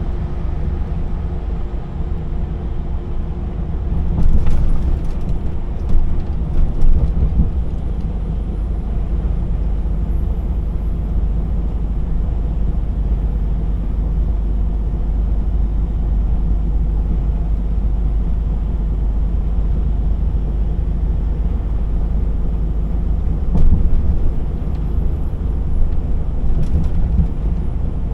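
DAF XF 480 semi truck under way: a steady diesel engine drone with road and tyre noise. A few louder thumps come between about four and seven seconds in, and again near the end.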